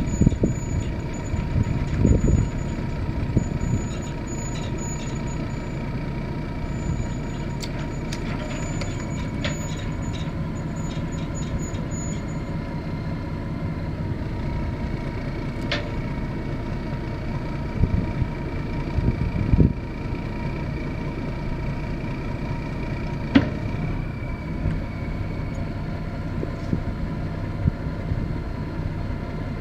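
Ford boom truck's engine running steadily at idle, with a constant low hum and a few sharp clicks or knocks along the way.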